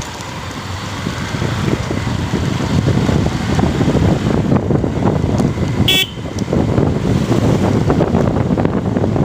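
Motorcycle riding noise: wind rushing over the microphone with engine and road noise, growing louder over the first few seconds. A short vehicle horn toot sounds about six seconds in.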